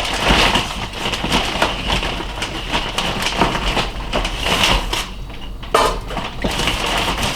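Frozen chicken tenderloins being handled: a plastic bag crinkling, with irregular clicks and knocks as the hard-frozen pieces are set on the oven's rack.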